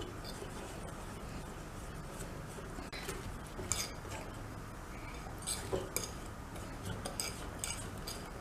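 A utensil stirring cake batter in a mixing bowl, with soft clinks and scrapes against the bowl coming every second or so.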